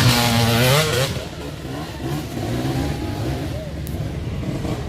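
Motocross bike engine running loud and close for about the first second, its pitch rising as it cuts off. After that, quieter engine noise from bikes further along the track.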